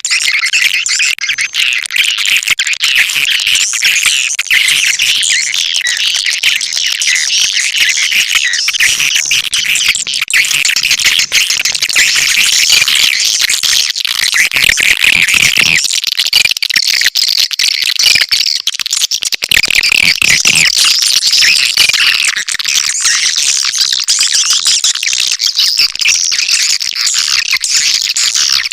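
Recorded edible-nest swiftlet calls, a dense, continuous high twittering of many birds at once: a swiftlet lure call, the kind played to draw swiftlets into a nesting house.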